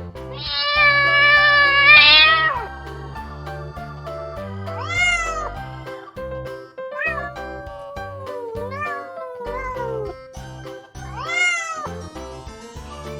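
Domestic cat meowing over background music: one long, loud, drawn-out meow of about two seconds first, then four or five shorter meows that rise and fall in pitch.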